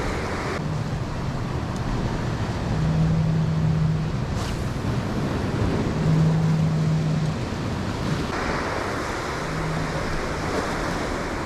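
Ocean waves washing over a rocky shore, with wind on the microphone. A low steady hum comes and goes in four short stretches of about a second each.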